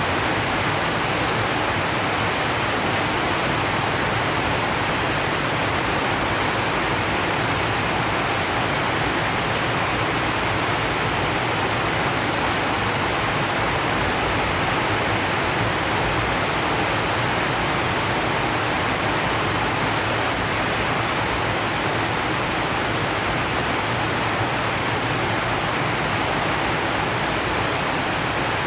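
Heavy rain falling steadily on a zinc roof, a dense even hiss with no single drops standing out.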